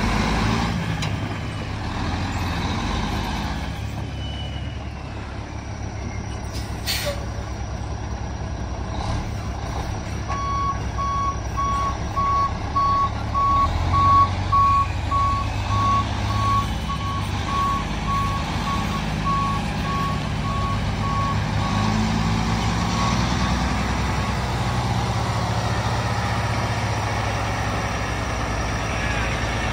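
2003 International 9900i water truck's heavy diesel engine running steadily, its backup alarm beeping in an even series from about a third of the way in, fading and stopping about three-quarters through as the truck reverses.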